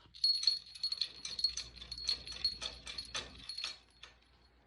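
Rapid metallic jingling and rattling clicks over a steady high ringing, for about three and a half seconds, then stopping.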